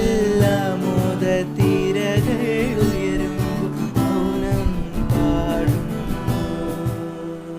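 Acoustic guitar strummed with a voice singing a Malayalam song, a drawn-out sung line in the first few seconds, then mostly guitar chords.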